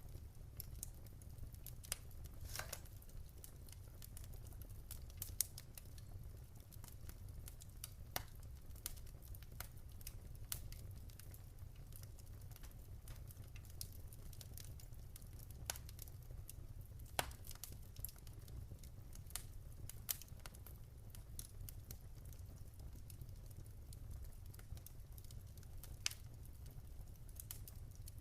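Wood fire burning in a fireplace, crackling with frequent irregular small pops and an occasional louder snap over a steady low rumble.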